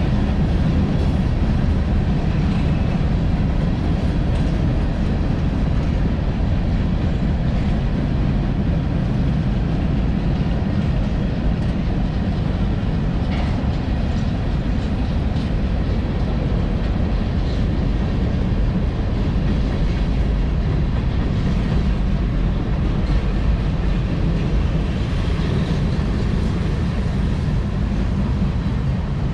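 A CSX freight train's cars rolling past at speed, their steel wheels giving a steady rumble on the rails with faint clicking.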